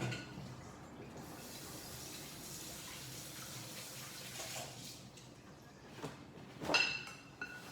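Kitchen tap running steadily for about four and a half seconds, then shut off. Near the end a metal pot or pan clanks once with a short ring.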